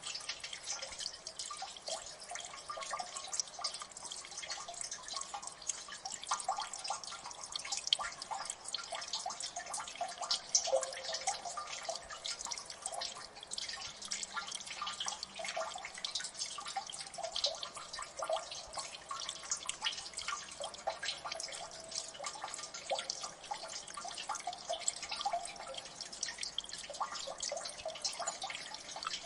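Many water drips falling in a gully, an irregular, dense patter of small plinks and splashes that never lets up.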